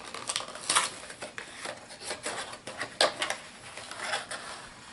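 Plastic packaging and small plastic miniature figures being handled, with irregular rustling and light clicks and clatters, the sharpest about a second in and again near three seconds.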